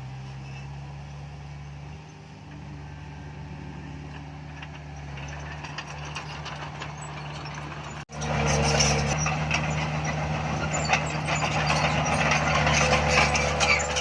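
Diesel engine of heavy earthmoving machinery running steadily. About eight seconds in, the sound cuts out for an instant and returns louder, the engine working harder among clattering and rattling.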